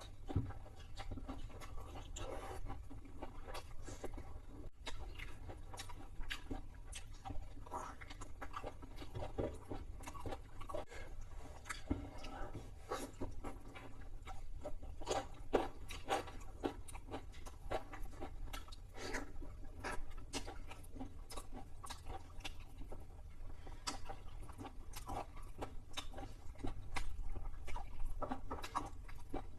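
Close-miked chewing of fried chicken: irregular crunches, bites and wet mouth smacks, over a steady low hum.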